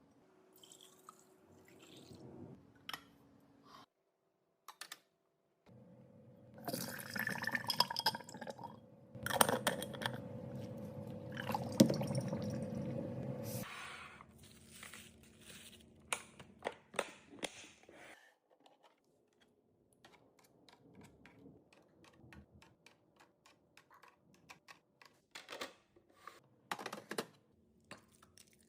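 Food packaging and containers handled while a refrigerator is restocked: scattered clicks and taps, with a louder stretch of crinkling and pouring in the middle.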